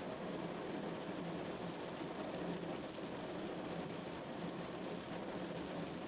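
Steady rain drumming on a car's roof and windows, a dense even patter heard from inside the car.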